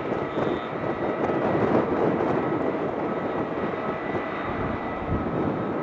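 Jet airliner engines running: a steady rumbling noise with a faint, even high whine over it.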